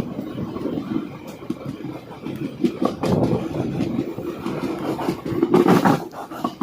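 Passenger train running along the track, heard from on board: a continuous rumble with scattered rail clicks and a louder rush of noise near the end.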